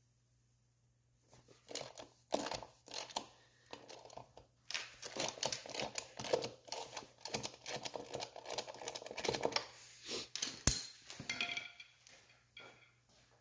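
Rapid clicking and rattling of a ratchet and socket working the 12mm bolts on a three-wheeler's front brake rotor, with tools clinking, and one sharp metallic knock about three quarters of the way through.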